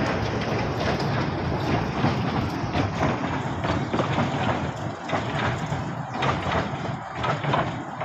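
A small ride-on joy train running along its track, its wheels and cars rattling with a string of irregular knocks over a steady running noise.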